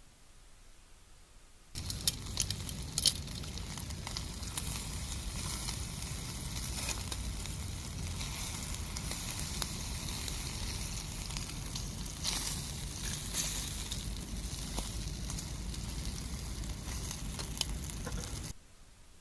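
Pork belly sizzling over a charcoal fire, with sharp crackles and pops of spitting fat, the loudest about two seconds in, over a steady low rumble. It starts abruptly about two seconds in and cuts off shortly before the end.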